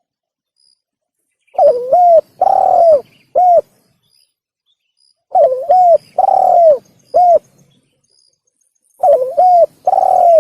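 Spotted dove (tekukur) song, repeated three times. Each phrase is a rolling first note, a short coo, a long loud coo, then a clipped final coo. This is the tekukur call used as a lure (pikat) for trapping and hunting.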